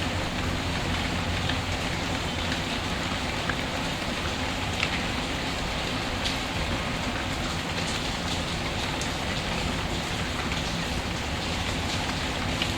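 Steady rain falling, with scattered sharp pops and crackles from a wood fire.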